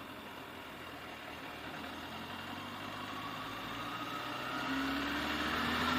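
Motorcycle engine running under way with road and wind noise, growing slowly louder as a faint engine note rises in pitch.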